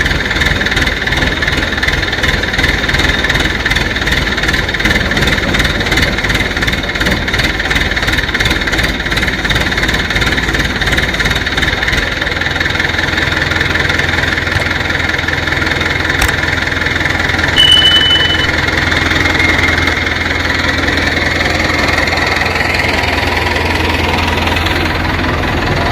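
Heavy engine running steadily, its low note changing about halfway through, with one short high beep a little after that.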